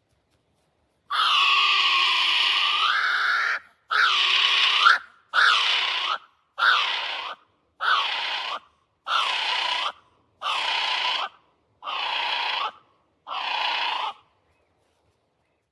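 Kiwi calling: a series of nine loud cries, the first about two and a half seconds long and the rest under a second each, repeated roughly every second and a third and getting slightly quieter toward the end.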